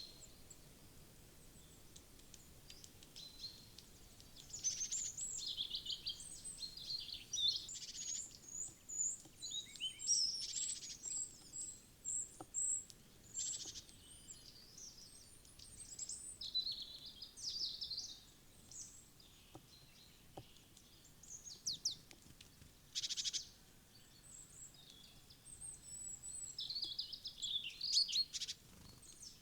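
Small songbirds chirping and calling, many short high calls overlapping and coming in clusters, over a faint outdoor background.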